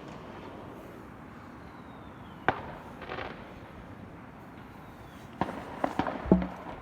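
Fireworks going off: a single sharp bang about two and a half seconds in, then a rapid string of cracking bangs from about five and a half seconds on.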